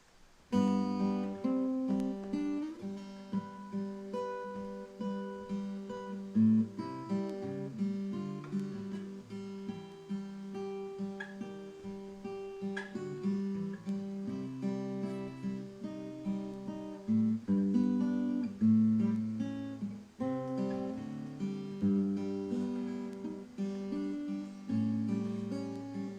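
Acoustic guitar playing an instrumental introduction, picked notes ringing over low bass notes, starting about half a second in.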